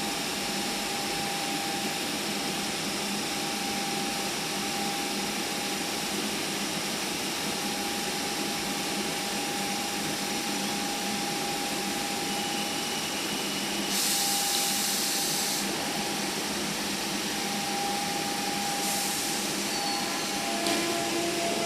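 Central Line 1992 stock train standing at the platform, its equipment giving a steady hum with a constant tone. Two short bursts of hiss come about 14 and 19 seconds in, and near the end a whine starts rising in pitch as the train begins to pull away.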